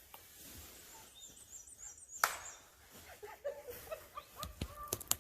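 Songbirds in spring woodland: a high, rapid warbling phrase about a second in, then short lower calls around three seconds in, with a sharp tap just after two seconds and a few faint clicks near the end.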